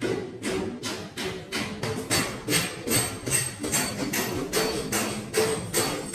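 Hammer beating on car body sheet metal in a steady rhythm, about three blows a second, each with a short metallic ring: panel denting work.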